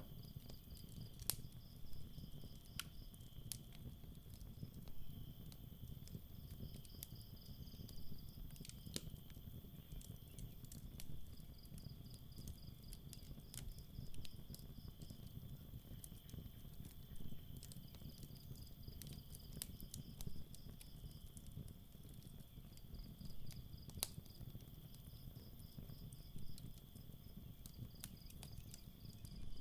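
Campfire crackling, with scattered sharp pops and a low rumble, under crickets chirping in short pulsed trains every few seconds and a steady higher insect trill.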